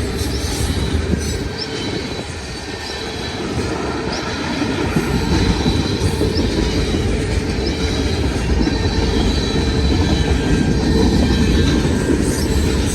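Freight cars of a long mixed freight train rolling past close by: a steady rumble of steel wheels on the rails, with a faint high wheel squeal running through it.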